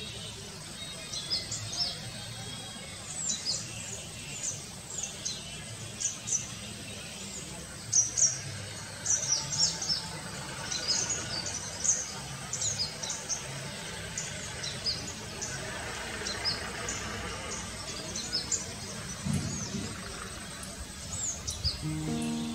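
Chorus of wild birds chirping, with many short, high, quick chirps overlapping continuously over a low outdoor background hiss. Background music comes in right at the end.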